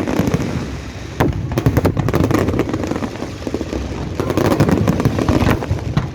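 Fireworks going off: rapid crackling and popping over a steady low rumble, getting louder about a second in.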